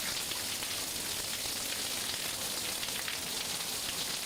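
Steady rain, an even hiss made of many fine drop ticks.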